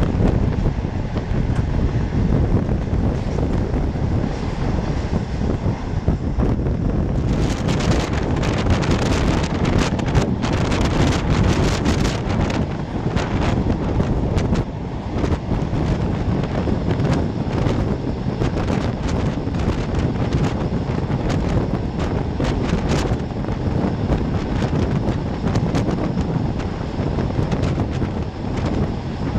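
A passenger train running at speed, heard from on board as a steady rumble with wind buffeting the microphone. From about seven seconds in comes a long run of sharp clicks and knocks, close together at first and then more spread out.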